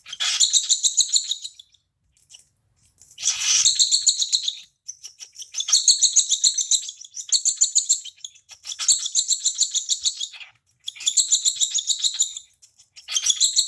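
Baby cockatiel chick's begging calls while being hand-fed: about seven bouts of rapid, raspy, high chirping, each about a second long, with short pauses between.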